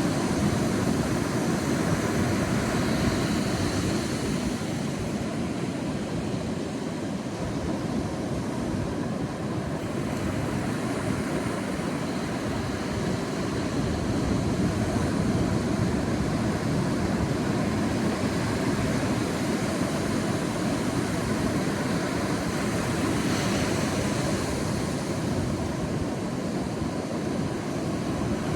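Sea waves washing on a beach: a continuous rushing surf that swells brighter about three seconds in and again about twenty-three seconds in.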